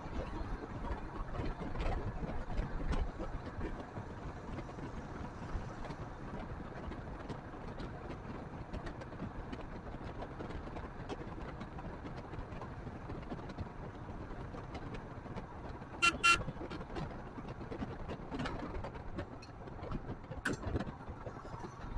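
Steady wind and road noise from a Royal Enfield Himalayan motorcycle on the move, with one short vehicle horn beep about sixteen seconds in.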